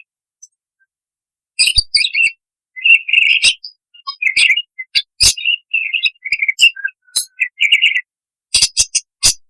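Budgerigar singing: after a short silence, a fast chattering run of chirps and warbles broken by sharp clicks, with a quick string of clicks near the end.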